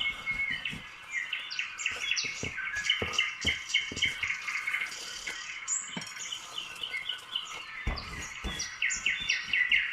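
Small birds chirping rapidly and without a break, many short high chirps overlapping, with a few soft low knocks.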